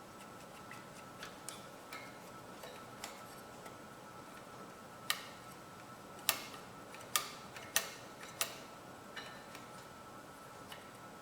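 Light metallic clicks and taps from a mower's carburettor throttle and governor linkage being worked by hand, with a few sharper clicks between about five and eight and a half seconds in.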